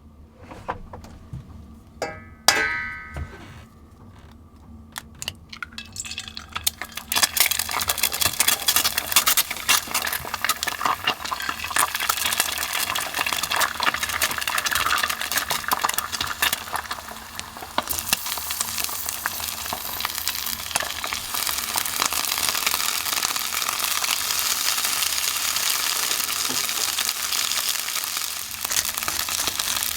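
Breakfast food frying in a hot pan: a short ringing clink about two seconds in, then steady crackling sizzle from about seven seconds on.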